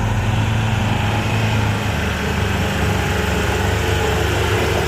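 Truck engine running steadily with a low drone; its note shifts slightly about two seconds in.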